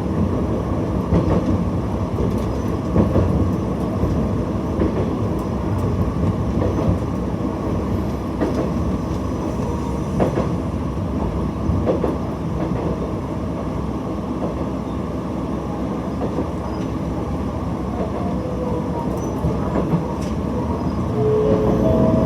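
Diesel railcar running along the line, heard from the cab: a steady low engine and running drone with scattered knocks of the wheels over rail joints. Near the end come a few short tones.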